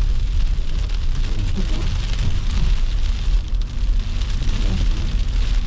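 A car driving on a snowy road: a steady low rumble with an even hiss of tyre and road noise.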